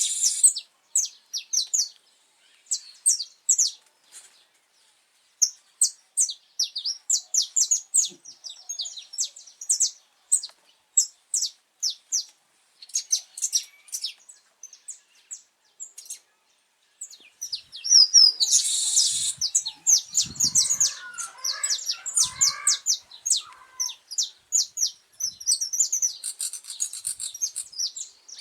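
Saffron finch singing: quick phrases of high, sharp chirping notes separated by short pauses, with a denser, busier stretch of song about two-thirds of the way in.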